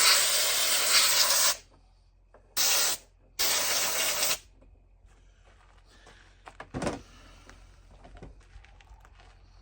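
Air blower blasting dust and debris out of a chainsaw: a long rush of air that stops about a second and a half in, then a short blast and a one-second blast. A few light knocks from handling the saw about seven seconds in.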